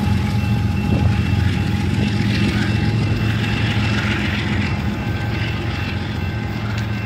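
CN iron ore freight train passing: a steady low rumble with a thin steady whine above it, slowly fading.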